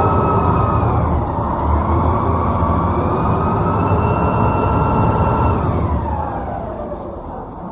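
A siren-like tone wailing slowly up and down, rising about a second in, holding, then falling away near the end, over a steady low rumble.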